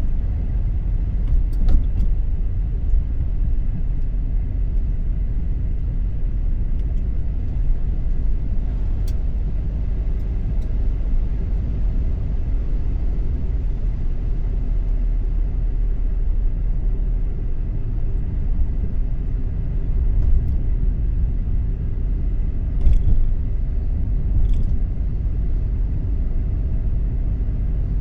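Car driving: a steady low rumble of tyres and engine, with a few faint clicks.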